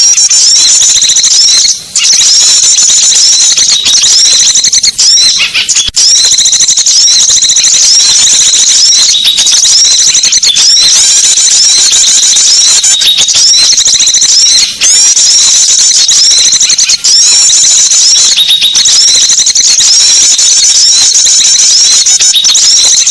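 Bird-lure recording of many small songbirds chirping and twittering at once. It is a loud, dense run of very high, rapid calls with only a few brief breaks.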